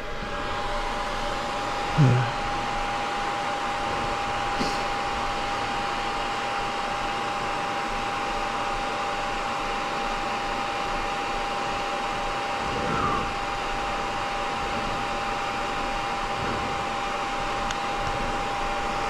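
Kove 450 Rally's electric radiator cooling fan running steadily with a constant whirring tone. The engine is running hot from slow single-track riding. A brief thump comes about two seconds in.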